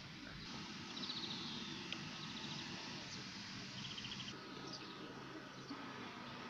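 Faint outdoor ambience: small birds giving short, rapid high trills three times, and a high falling call about a second in, over a low steady background noise.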